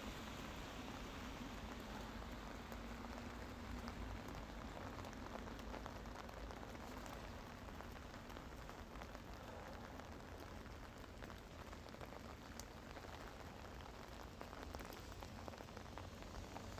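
Steady rain falling, with the patter of scattered drops on surfaces.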